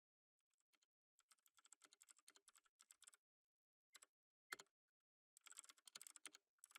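Faint typing on a computer keyboard: a run of quick keystrokes, a pause broken by two single key presses (the second the loudest), then another run of keystrokes near the end.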